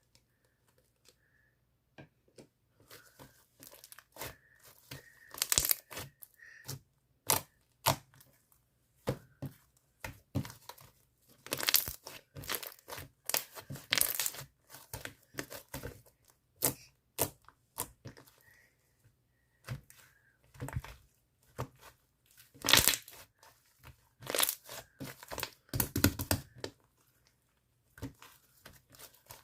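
Blue holographic film being crinkled, handled and torn, in uneven bursts of crackling with short pauses between them.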